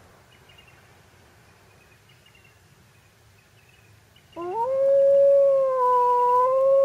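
A dog howling: one long howl that starts about four seconds in, slides up in pitch and then holds a steady tone.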